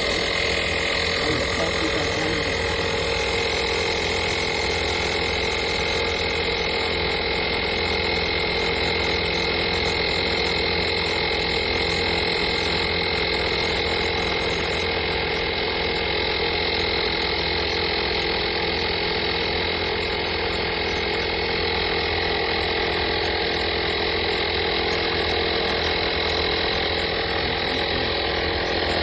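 FADAKWALT portable 12V tire inflator's air compressor running steadily, a constant mechanical hum with a steady higher tone over it.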